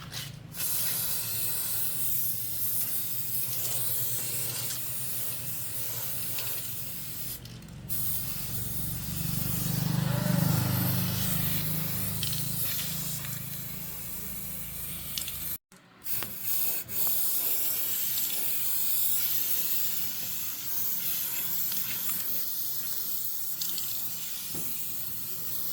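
High-pressure spray hissing steadily over a low machine hum, swelling about ten seconds in and cutting out briefly around sixteen seconds.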